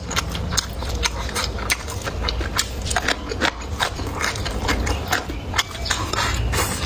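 Close-miked eating: chewing and mouth smacking, with many irregular sharp clicks over a low rumble.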